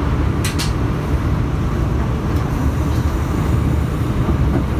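Running noise heard aboard an Alstom Régiolis regional train: a steady low rumble of the train rolling along the rails, with two short sharp clicks about half a second in.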